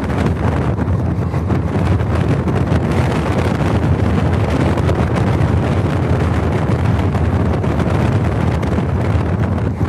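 Moving passenger train running steadily, with a low rumble and wind buffeting the microphone.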